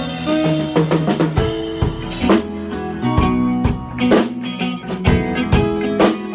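A rock band playing an instrumental passage between sung lines: drum kit with kick and snare hits keeping a steady beat under electric guitar and bass.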